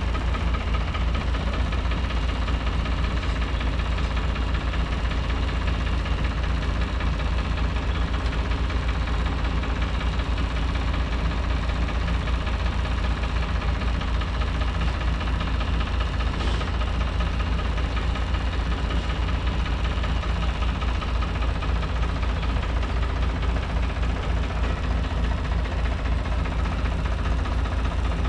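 Small 65-horsepower farm tractor's engine running steadily.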